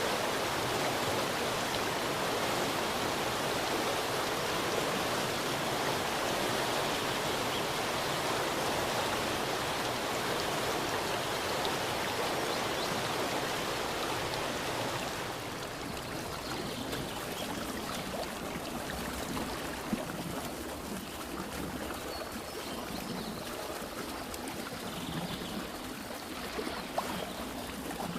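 River stream rushing steadily over rocks. About halfway through it abruptly becomes quieter and thinner, a lower, more burbling flow.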